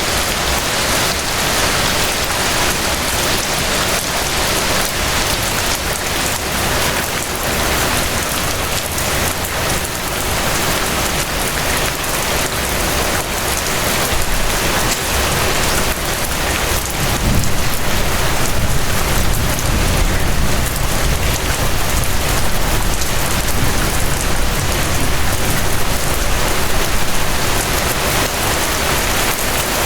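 Steady, dense rain falling, an even hiss with no pauses. A low rumble underneath grows stronger about halfway through and holds to near the end.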